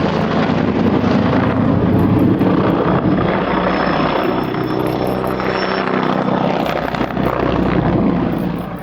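AH-129D Mangusta attack helicopter in flight, its rotors and turbine engines loud and steady, with a faint high whine partway through; the sound cuts off suddenly at the end.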